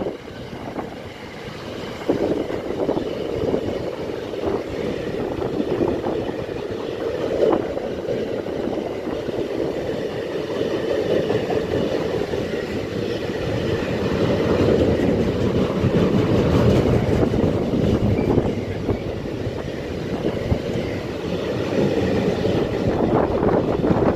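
Freight train of double-deck car-carrier wagons rolling past, steel wheels running on the rails in a steady rumble with occasional knocks, growing louder in the second half.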